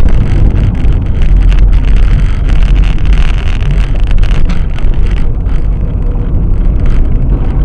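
Loud, steady low rumble of a moving car picked up by a dashcam microphone, with wind buffeting the microphone.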